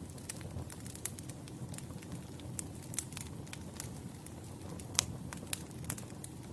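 Wood campfire burning: a steady low rumble of flames with sharp, irregular crackles and pops, the loudest pop about five seconds in.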